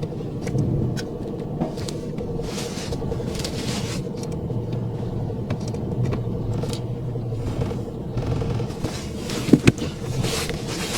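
A vehicle engine running steadily with a low rumble and a constant hum, with scattered clicks, a few hissing rushes, and one sharp knock about nine and a half seconds in.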